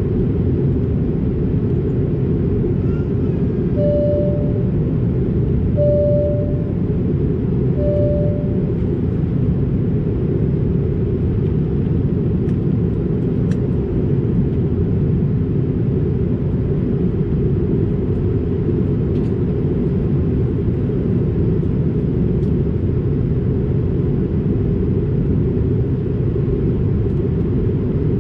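Steady, loud cabin rumble of an Airbus A220-300 in flight: its engines and the airflow heard from a passenger seat. Near the start, three short, even tones sound about two seconds apart.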